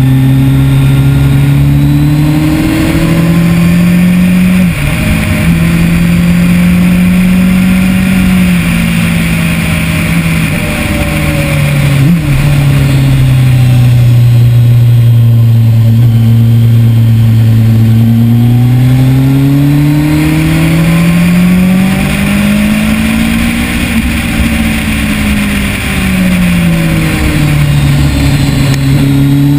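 2010 Kawasaki ZX-10R's inline-four engine at speed on track, its note climbing and falling repeatedly as the bike accelerates and slows through corners, with sudden breaks in the pitch about 5 and 12 seconds in. Wind rush runs under the engine.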